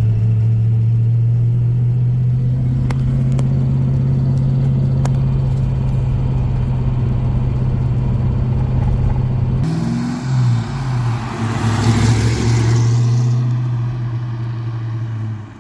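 Fox-body Ford Mustang engine running steadily at cruise, heard from inside the car. About two-thirds of the way through it changes to the car heard from outside, revving as it pulls away and swelling as it passes, then cutting off sharply near the end.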